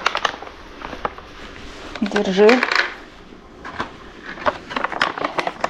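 Light sharp clicks and clinks of small hard objects: a few near the start, then a quick run of them in the last two seconds, with one short spoken word in the middle.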